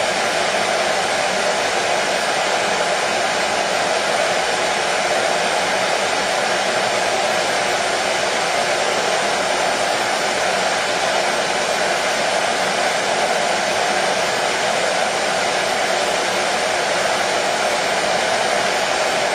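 Electric hair dryer running steadily: an even, unbroken blowing noise with a faint motor hum, played as white noise to soothe a colicky baby.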